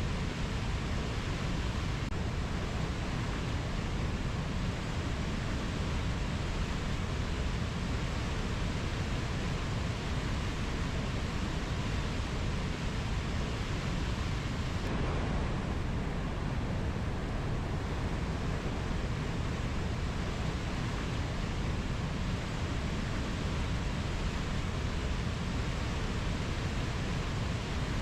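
Steady, even rushing noise, heaviest in the low end, with no distinct calls or strikes; the hiss dulls briefly about halfway through.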